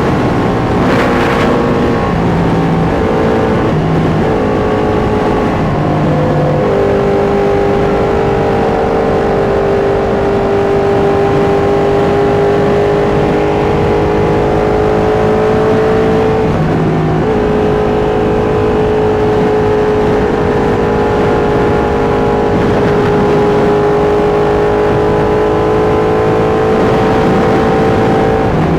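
Sport motorcycle engine at highway speed, shifting up through a few gears in the first several seconds and then holding a steady cruise, with a brief drop in revs about two-thirds of the way through. A steady rush of wind runs under it.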